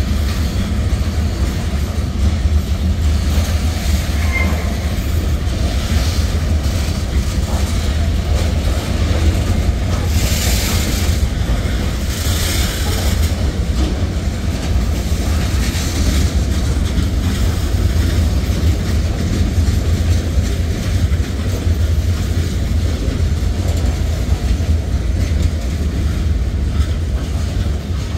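Freight cars of a Norfolk Southern manifest train rolling steadily past over a grade crossing: a loud, continuous heavy rumble with wheel clatter on the rails. About ten and twelve seconds in there are two brief moments of higher-pitched wheel noise.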